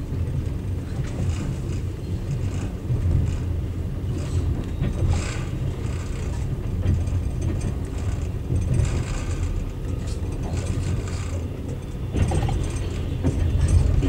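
Passenger train coach heard from inside while moving: a steady low rumble from the running gear, with scattered creaks and rattles of the carriage.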